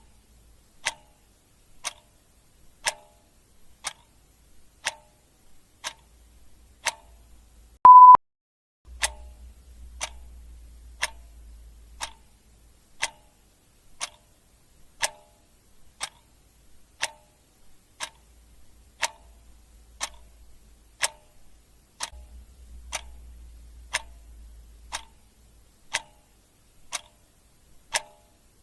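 Clock ticking steadily, once a second. About eight seconds in, a short, loud beep at one steady pitch sounds once.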